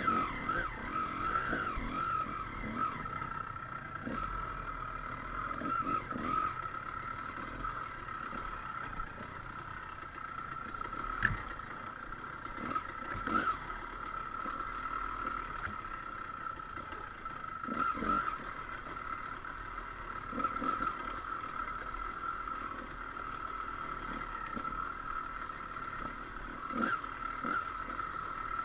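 Dirt bike engine running at a fairly steady pitch, with a few short knocks scattered through.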